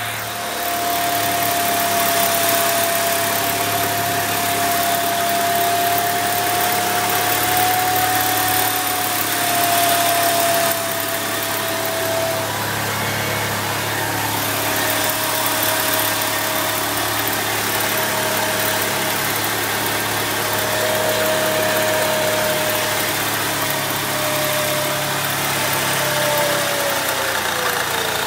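Saab 9-3 Aero engine running with a steady high-pitched whine over it; the whine drops a little in pitch about halfway through and glides down near the end. The owner wonders whether the whine is the turbocharger.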